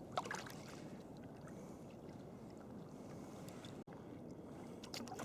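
Quiet wash of sea water around a sea kayak under way, with a few small paddle splashes and drips just after the start and again near the end.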